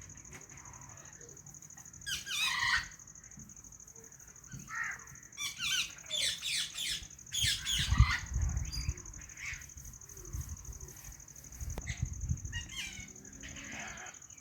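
White Indian ringneck parrot squawking and chirping in groups of short, harsh, rapidly repeated calls: a burst about two seconds in, a longer run from about five to nine seconds, and another near the end. A couple of low thumps come with the calls.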